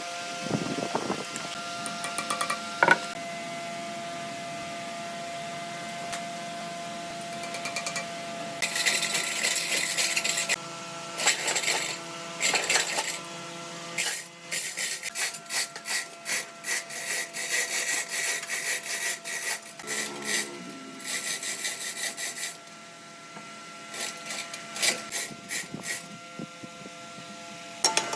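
Wood being worked by hand with a saw, rasp or sanding block: repeated scraping strokes starting about a third of the way in, about two a second in the middle stretch, over a faint steady hum.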